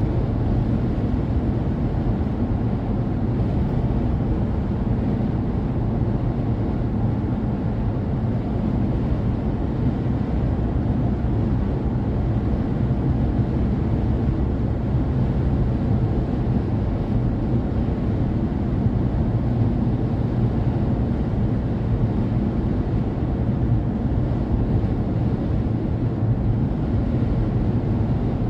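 Steady low rumble of a car driving in strong wind: road noise and wind noise with no breaks or changes.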